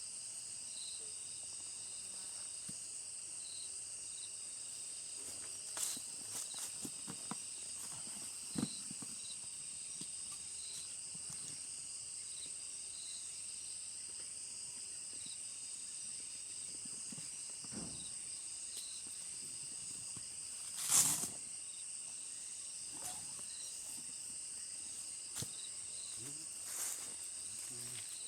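Steady high-pitched insect chorus, several droning tones held together, with a faint repeated chirp in the first half. Now and then short clicks and knocks, the loudest about two-thirds of the way through.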